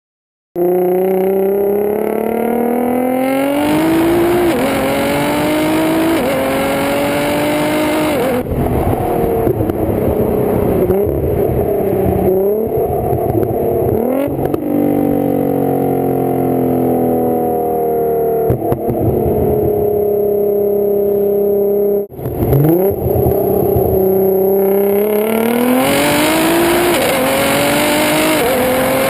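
Exhaust of a tuned 1000 bhp Nissan GT-R with a titanium exhaust, loud, accelerating hard through several gears, the pitch climbing and dropping back at each shift. Then the revs fall away as it eases off, and after a brief break the car accelerates hard again.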